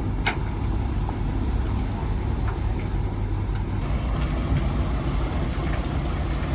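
A fishing trawler's diesel engine running steadily, a continuous low rumble, with a few faint clicks over it.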